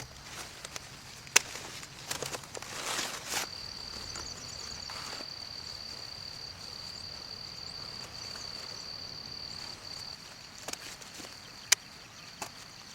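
An insect's steady, high-pitched buzz starts about three and a half seconds in and holds, over a rustling outdoor background. Two sharp clicks, one early and one near the end, are the loudest sounds.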